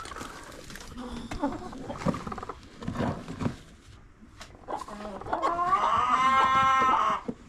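Chickens clucking with scattered short calls and knocks, then a rooster crows once near the end, one long call of nearly two seconds.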